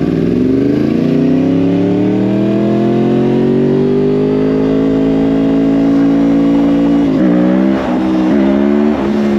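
A 2010 Yamaha R1's crossplane inline-four, through a Yoshimura exhaust, under way. It rises steadily in pitch for the first few seconds, then holds a steady high note, dipping briefly three times near the end.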